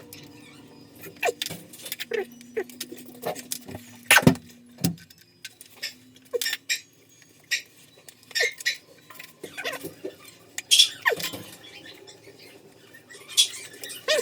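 Irregular metallic clinks and knocks with a few short squeaks: hand tools working on metal heating pipe fittings.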